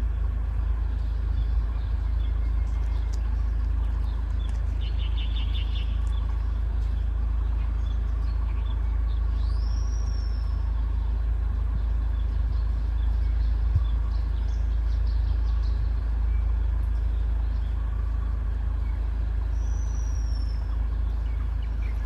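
Wild forest birds calling over a steady low rumble: a short buzzy trill about five seconds in, then two high whistled calls that sweep upward, one near the middle and one near the end.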